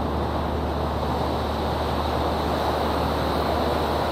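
Steady rumble of a river tour boat under way: a low engine hum under an even rush of water and wind noise.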